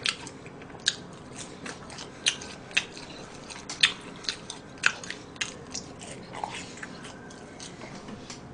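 Close-miked crunching and chewing of crispy fried chicken: irregular sharp crunches, a loud one about every second with softer ones between.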